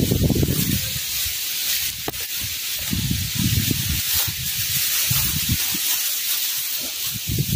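Strong wind buffeting the microphone in irregular low gusts over a steady hiss of wind through foliage.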